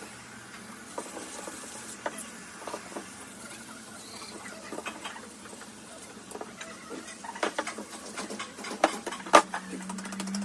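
Scattered light clicks, taps and scrapes of metal parts and hand tools being handled while a JCB JS215 excavator's hydraulic pump is worked on by hand. Two sharper, louder clicks come about nine seconds in.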